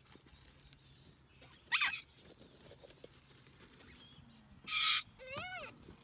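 Parrots calling: a short squawk about two seconds in, then a harsh screech and a rising-then-falling call near the end.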